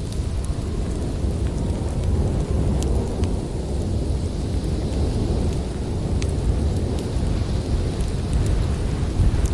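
Steady low rumble of storm wind with a faint hiss, with scattered sharp crackles and pops from a wood fire.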